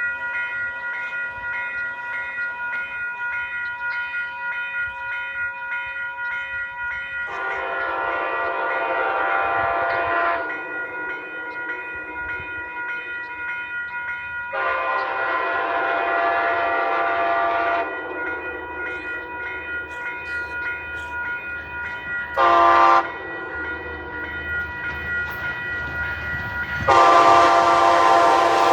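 Train horn sounding the grade-crossing pattern: two long blasts, one short one, and a final long blast starting near the end, over a steady tone from a passing train.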